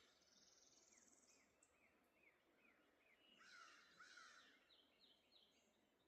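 Faint birds calling: a run of quick, repeated descending chirps, a short high trill near the start, and two louder calls about three and a half and four seconds in.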